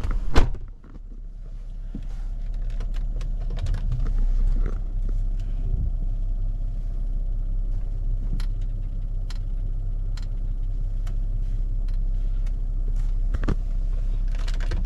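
V6 car engine running at a steady low hum, heard from inside the cabin, after a sharp knock about half a second in; a few light clicks and rattles now and then.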